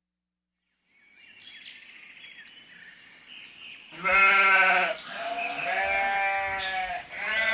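Livestock bleating: a short bleat about four seconds in, then a long wavering bleat, with another starting near the end, over faint background noise.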